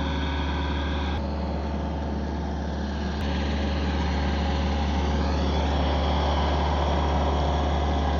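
A vehicle engine running steadily at idle, a constant low hum with steady overtones.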